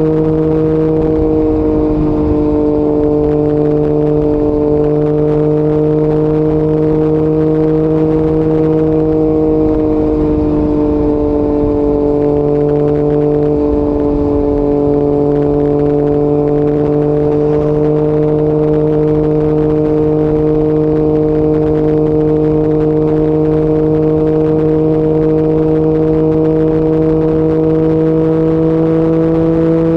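Yamaha MT-09 three-cylinder engine with an Akrapovic exhaust, held at a steady cruise at fairly high revs with wind rushing past. The pitch sags a little midway and climbs slightly near the end.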